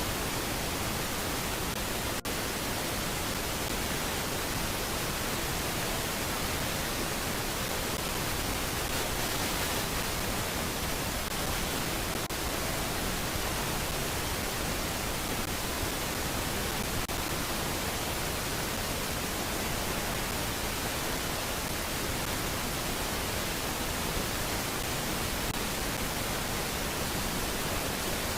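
Steady, even hiss of noise with no distinct sounds in it, broken only by a couple of faint clicks.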